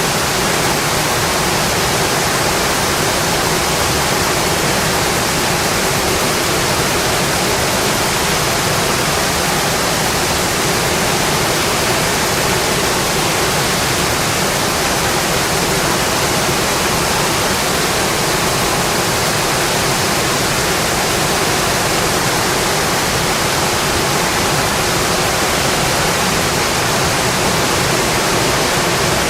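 Steady rainfall, an even unbroken hiss with no separate drops or changes.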